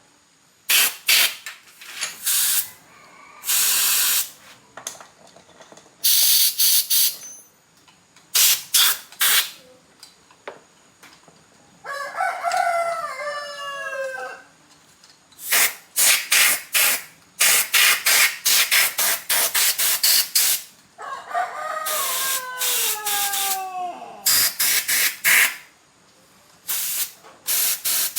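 Repeated short bursts of spray hiss, some brief and some about a second long, from cleaning motorbike parts. A rooster crows twice, about twelve seconds in and again about twenty-two seconds in.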